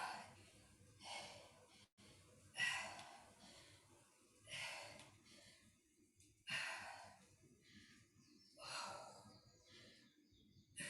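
A woman breathing hard from exertion during lunge repetitions: a breathy exhale about every two seconds.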